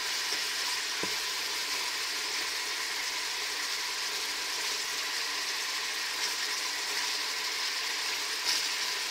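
Pieces of cuttlefish sizzling steadily in hot olive oil in a stainless steel pot as they sauté. A wooden spoon stirring them gives a soft click about a second in and a sharper knock near the end.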